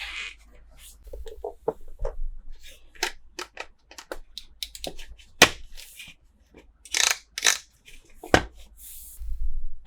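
Toy packaging being opened and handled by hand: irregular clicks and taps of small plastic pieces, with crinkling bursts about seven seconds in and again near the end.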